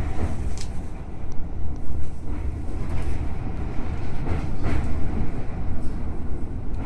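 Electric commuter train running along the track, heard from inside the car: a steady low rumble with scattered clicks and creaks.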